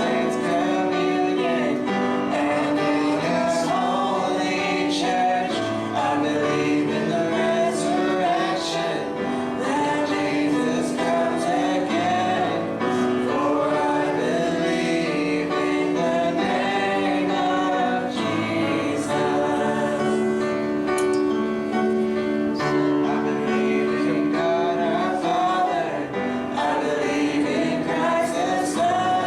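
Congregational worship singing, male and female voices together, with instrumental backing and a bass line.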